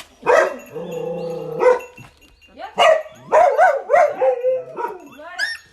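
Dogs barking and whining: a long held whine near the start, a quick run of barks around three seconds in, and high, rising-and-falling yelps near the end.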